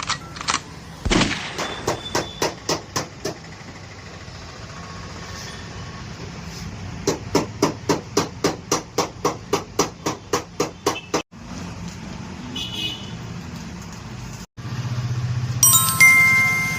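Hammer blows on metal, about four a second, in two runs, over a steady low hum. Near the end comes a short sound with several steady pitches.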